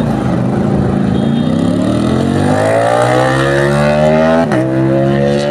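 Performance vehicle engine accelerating hard, its exhaust note rising steadily in pitch, with a quick upshift about four and a half seconds in before it pulls on.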